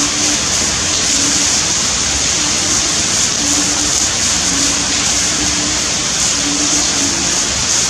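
Heavy torrential rain pouring down: a loud, steady hiss of water.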